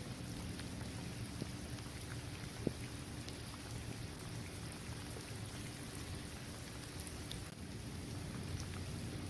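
Steady rain falling on a paved basketball court, trees and grass, with scattered individual drops ticking and one sharper drop tick a little under three seconds in.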